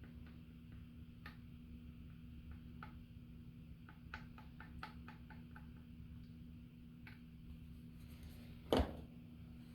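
Faint, irregular small clicks and taps of parts being handled during a gluing job, with one louder knock near the end, over a steady low hum.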